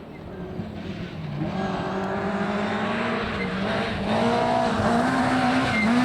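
Rally car engine approaching, its note rising and dipping with throttle and gear changes and growing steadily louder.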